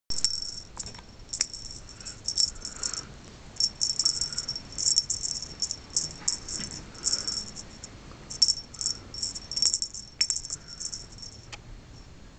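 Jingling cat toy shaken and batted by a playing kitten, in quick irregular bursts with a few light knocks, dying down near the end.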